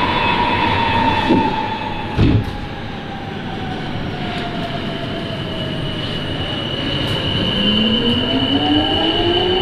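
Rubber-tyred Sapporo Namboku Line subway train pulling away from the platform, with a thud about two seconds in over steady running noise. Near the end the traction motors' whine climbs in pitch as the train accelerates.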